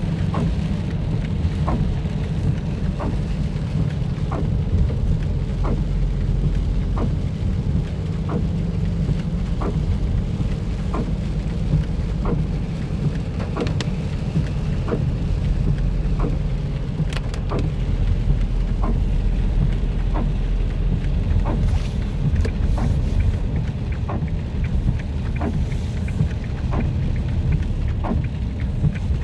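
A car driving on a wet road in light rain: a steady low rumble of tyres and engine, with rain on the car. Short, soft ticks come evenly about once a second throughout.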